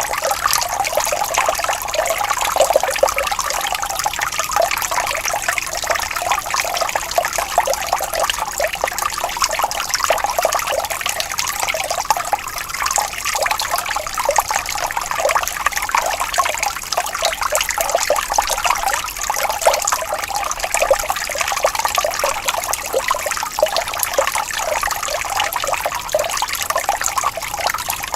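Gently flowing water trickling and babbling steadily, a continuous splashing patter with no low rumble.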